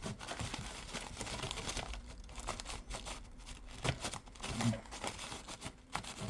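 Paper coffee filter rubbing and crinkling as it scrubs residue off a computer part's surface, an irregular scratchy rustle with small clicks.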